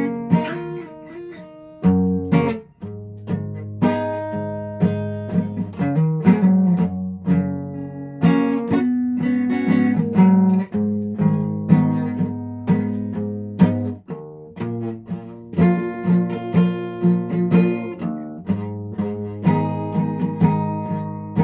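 A guitar being played: chords struck one after another in a loose rhythm, each ringing on and fading before the next.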